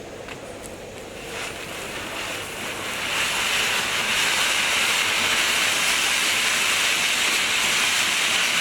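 Ajanta Strawberry Pink Fountain firework lit and spraying: a hiss that builds over the first few seconds, then holds steady.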